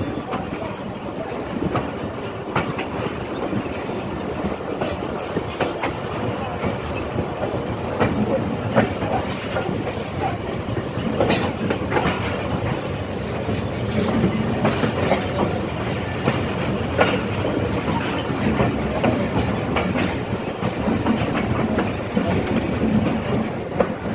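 Pakistan Railways passenger coach rolling, heard from aboard: a steady rumble of the running gear with irregular clicks and knocks of the wheels over rail joints as the train pulls out of the station.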